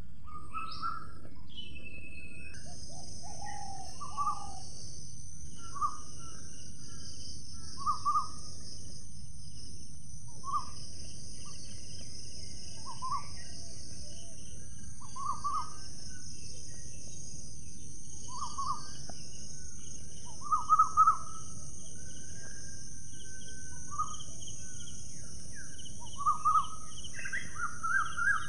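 Short bird calls repeat about every one to two seconds, with fainter chattering higher up. Beneath them runs a steady high hiss and a low background rumble; a quick cluster of calls comes about two-thirds of the way in.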